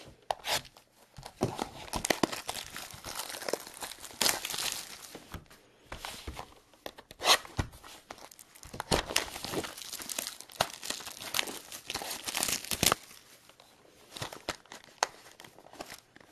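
Trading-card mini box being torn open by hand: irregular rips and crinkling of its packaging, with a few sharp clicks, easing off near the end.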